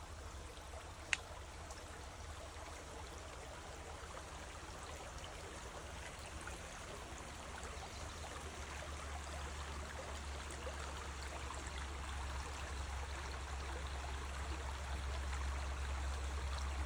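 River water flowing, a steady rush that grows slowly louder, with one sharp click about a second in.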